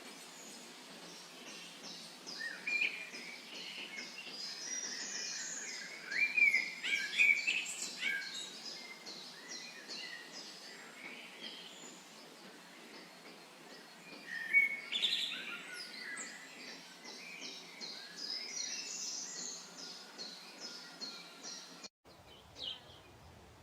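Several wild songbirds singing outdoors: loud whistled phrases and chirps come in clusters over a fast, steady, high-pitched trill. The birdsong cuts off abruptly near the end.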